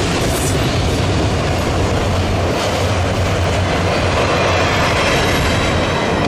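Freight train rolling past close by: a steady rumble of wheels and cars on the rails.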